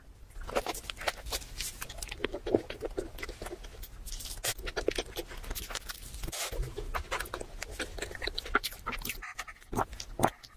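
Close-miked chewing and wet mouth sounds of eating a soft bread roll filled with scrambled egg: many rapid small clicks and smacks. Near the end, a drink is sipped through a straw.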